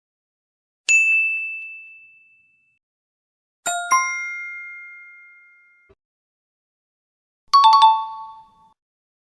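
Three 'correct answer' quiz chime sound effects, one after another with silence between. A single high ding rings out about a second in, a two-note chime follows near four seconds, and a quick falling pair of lower notes comes near the end.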